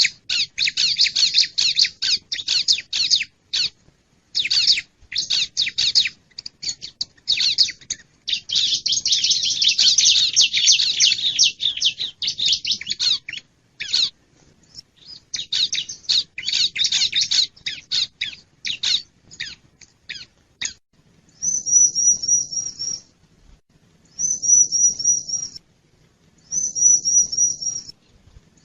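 Bar-winged prinia (ciblek) calls played as a lure: a long run of rapid, scratchy chirping. From about 21 seconds in it changes to a short high trilled phrase repeated three times, about two and a half seconds apart.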